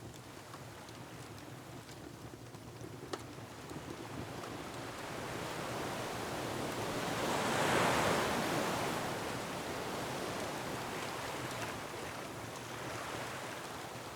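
Ocean surf washing against a rocky shore. One wave swells to a peak a little past halfway and then recedes, with a few faint crackles from a wood fire.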